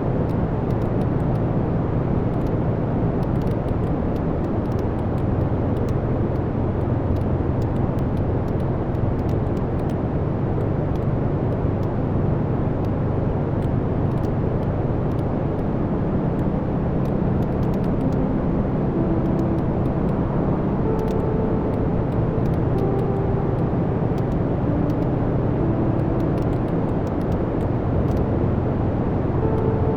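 Wood fire burning in a fireplace: a steady low rush of flame with small, scattered crackles and pops from the burning logs.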